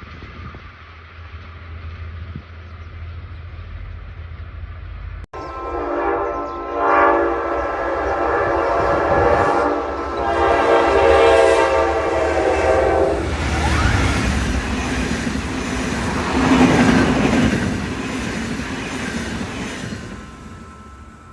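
Diesel train passing. A low rumble gives way, about five seconds in, to a loud locomotive horn blast held for about seven seconds. Loud running noise of the train going by follows and fades away near the end.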